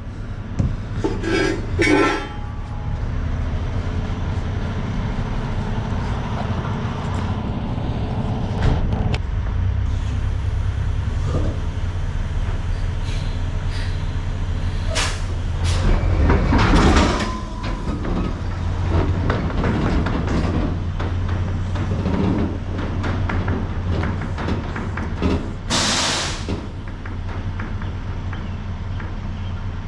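Diesel semi-truck engine running steadily, with scattered clunks and rattles, a louder stretch about halfway through, and a short burst of hiss near the end.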